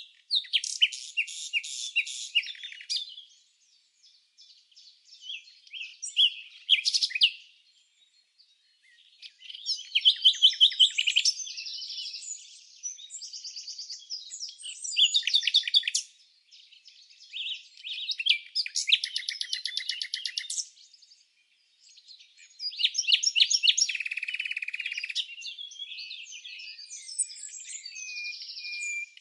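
Birds chirping and singing in high-pitched phrases of rapid notes and trills, each a few seconds long, with short pauses between them.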